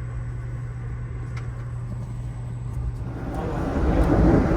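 Amtrak passenger train rolling along, heard from on board: a steady low rumble with a constant hum. About three seconds in, a louder rushing rumble of rail noise swells in and keeps building.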